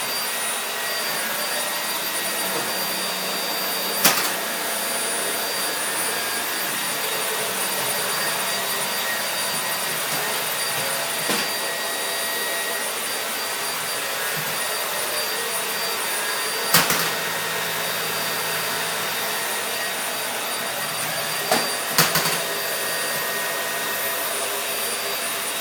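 Vacuum cleaner running steadily with a high whine, with a few sharp knocks now and then as it is pushed about.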